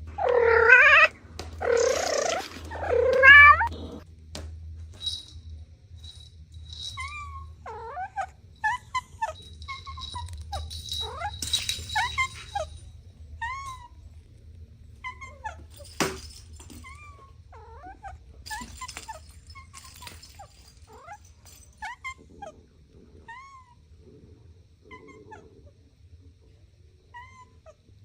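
A cat meows loudly several times in the first few seconds, with drawn-out, wavering calls. After that, short, soft high-pitched calls follow every second or so until the end.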